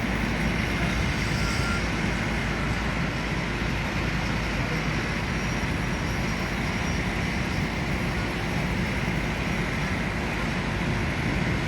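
Truck engine running steadily, a constant unbroken rumble with no changes in pitch or level.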